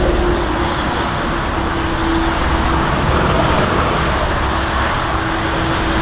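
Jet airliner engine noise: a steady rushing sound with a faint low hum held throughout.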